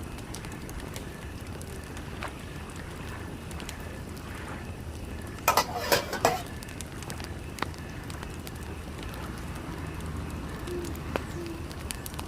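Wood fire crackling in a wood-burning stove, with scattered sharp pops, and a brief clatter of a few quick knocks about halfway through.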